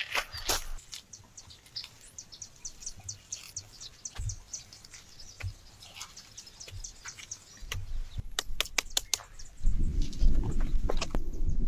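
A bird calling in a rapid run of short, high chirps, about six a second, with scattered clicks and crackles around it. Near the end a loud low rumble comes in.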